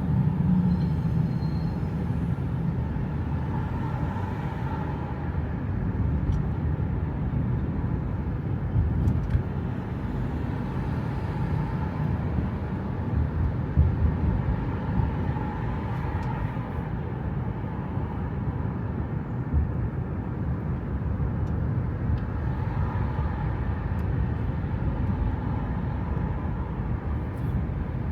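Steady low rumble of a car in motion: road and engine noise that holds even, with no sharp events.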